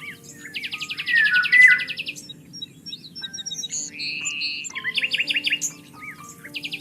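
Several songbirds calling at once: short whistled notes and chirps, with a fast buzzy trill about half a second in and again near the end. A low steady hum runs underneath.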